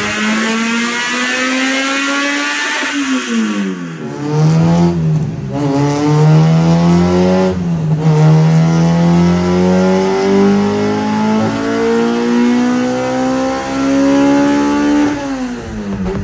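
Honda B20 VTEC four-cylinder engine pulling hard at full throttle, revs climbing steadily. The revs drop sharply about three and eight seconds in, like gear changes, and after a long final climb they fall away near the end.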